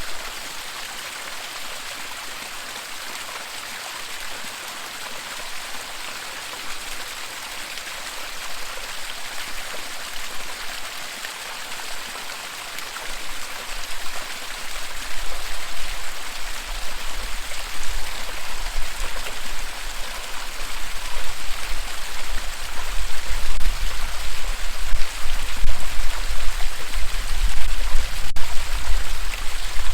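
Waterfall rushing with a steady hiss of falling water. From about halfway a low, unsteady rumble builds in and the sound grows louder.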